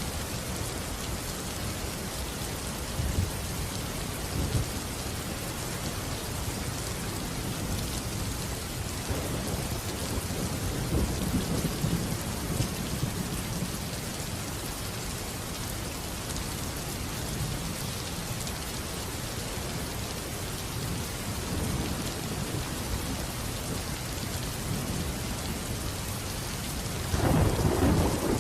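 Steady heavy rain falling, with rolling thunder rumbling low in the middle and a louder thunderclap rumble near the end.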